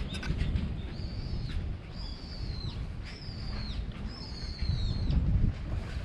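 A bird calling four times, about once a second: high, thin drawn-out notes, each holding its pitch and then dropping away at the end, over a low rumbling noise.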